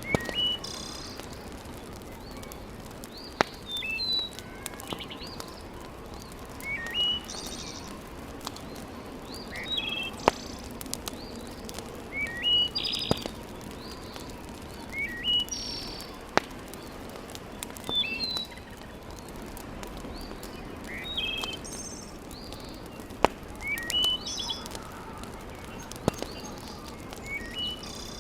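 A songbird repeats a short chirping phrase every two to three seconds over the steady low hiss of a wood fire, with a sharp single crackle from the fire about every three seconds.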